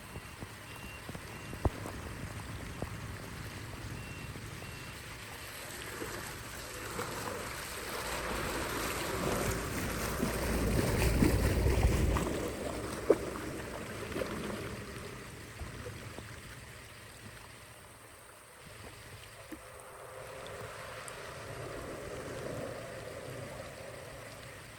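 Running water, swelling louder and heavier for a few seconds in the middle before easing off, with a few sharp knocks.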